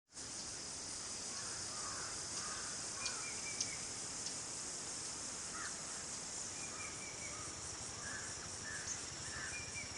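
Steady high-pitched insect chorus, with scattered short bird chirps and whistled notes and a few sharp clicks through it.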